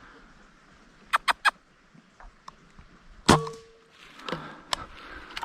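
A pellet air rifle fires once about three seconds in: a sharp crack with a brief ringing twang after it. Three quick clicks come about a second before the shot, and a few fainter clicks follow it.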